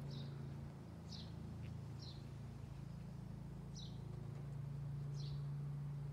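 A small bird calling with five short, high, falling chirps spaced a second or so apart, over a steady low hum.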